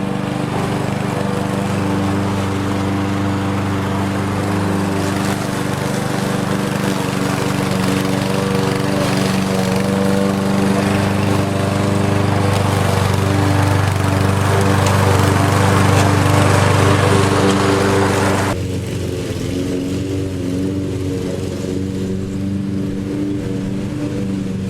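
Lawn mower engine running steadily, growing a little louder partway through. About three-quarters of the way in, the higher hiss cuts off suddenly while the engine keeps running.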